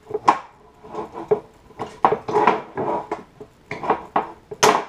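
Hand pop-rivet gun being squeezed repeatedly to set a rivet: a run of sharp metallic clicks and clanks with some ringing, the loudest near the end.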